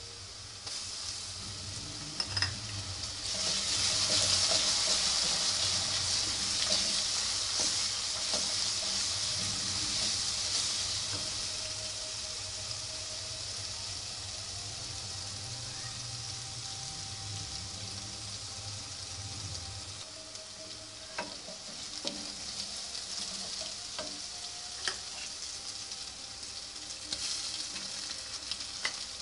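Sliced onions sizzling as they fry in hot oil in an aluminium pot, stirred with a wooden spatula that gives a few sharp clicks against the pot. The sizzle is loudest in the first ten seconds or so, then settles lower.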